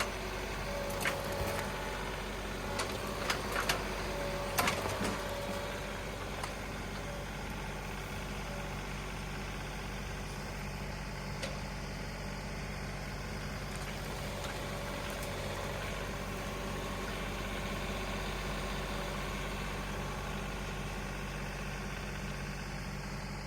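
Compact tractor engine running steadily, with a few sharp knocks and clicks in the first five seconds.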